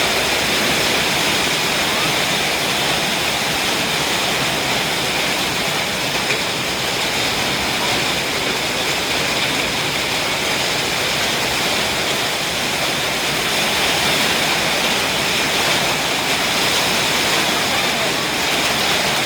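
Heavy rain and hail of a hailstorm coming down hard: a loud, steady rushing noise without let-up.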